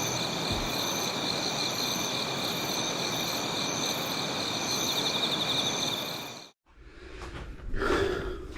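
A steady outdoor chorus of summer insects, several unbroken high trills layered over a pulsing buzz, that cuts off abruptly about six and a half seconds in; fainter scattered sounds follow.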